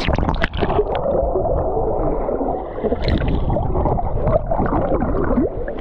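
A splash, then muffled gurgling and bubbling of water heard from underwater, with the high sounds cut away.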